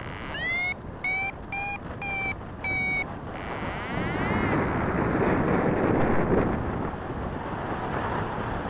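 Paraglider variometer beeping: one tone sliding up in pitch, then about four short beeps, which stop about three seconds in. Beeps like these are the vario's climb signal, given when the glider is rising in lift. Steady wind noise on the microphone continues throughout.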